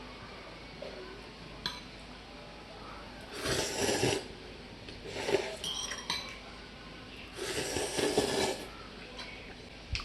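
Dishes and utensils being handled at a meal: a single clink, then three short bursts of scraping and rustling, the last one the longest.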